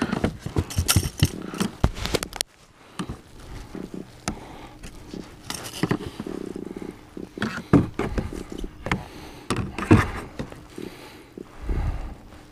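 Irregular knocks, clatter and scrapes, thick for the first two seconds or so, then a brief quiet spell and scattered knocks after it.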